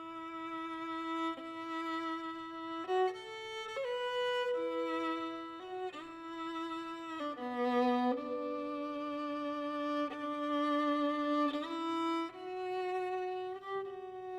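Slow solo violin melody: long held notes, each a second or two, stepping up and down.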